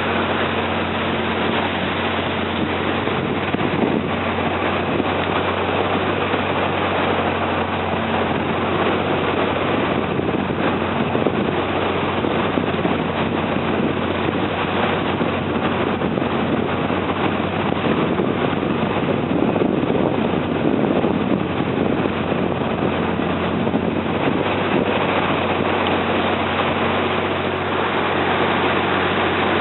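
A river slow boat's engine running steadily under way: a constant low drone with a hum of steady tones over a wash of noise.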